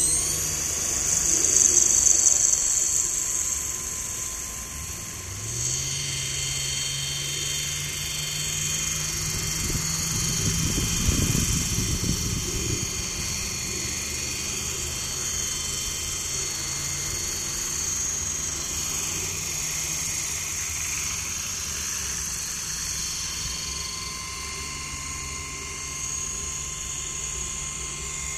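Electric coaxial RC helicopter in flight: a steady high-pitched brushless motor whine over the low thrum of two contra-rotating three-blade rotors. The rotor tone steps up in pitch about five seconds in.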